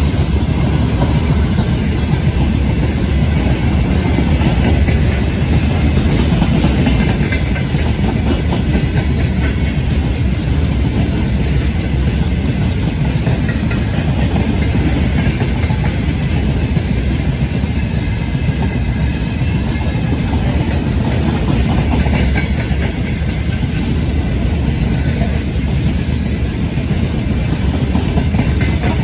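Freight train wagons rolling past at speed: a steady, loud rumble of steel wheels on rails, with rapid close-packed wheel clatter that never lets up.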